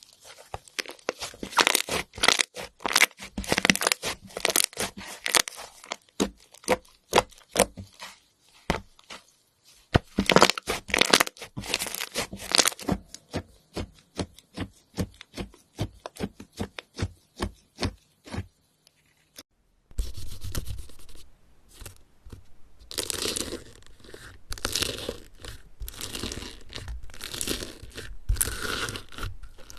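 Slime being worked by hand, giving a dense run of sharp clicks and pops. A little before two-thirds of the way through it breaks off and gives way to a denser crunching, tearing texture.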